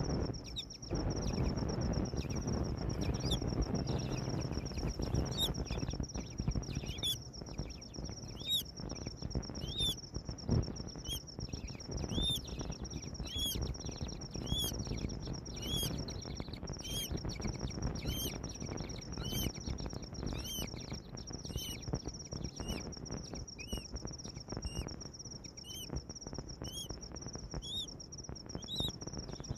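A bird repeating short, arched chirps, roughly one a second, over a steady high-pitched whine and low rumbling noise.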